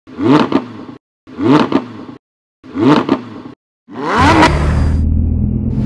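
Car engine revved in four short blips, each a rising note cut off abruptly by silence, then a steadier, louder engine rumble from about four seconds in.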